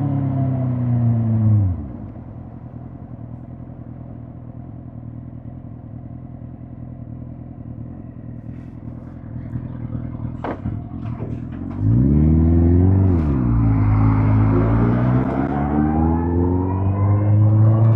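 Suzuki GSX-R1000 K5's inline-four engine: revs fall and the throttle shuts, leaving a low quiet running for about ten seconds with a couple of clicks, then about twelve seconds in the throttle opens and the engine pulls away, its pitch rising steadily.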